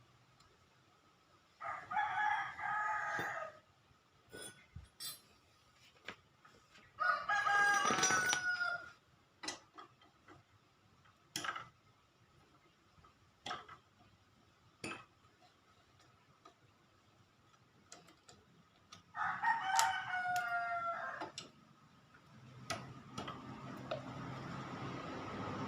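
A rooster crowing three times, each crow lasting about two seconds, with scattered light clicks and knocks in between. A steady noise builds up near the end.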